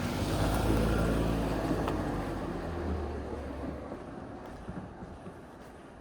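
A car passing on the street, its engine and tyre noise loudest about a second in, then fading away over the next few seconds.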